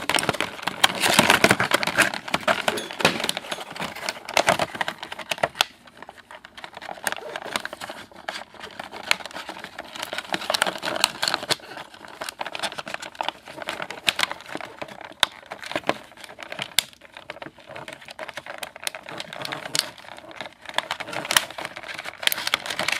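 Cardboard box and plastic packaging of a toy being handled and opened: rustling and crinkling with many scattered clicks and taps.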